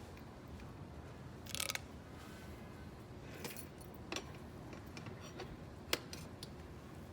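Scattered light clicks and taps of tools and parts being handled during motorcycle tire work, with a short scrape about one and a half seconds in.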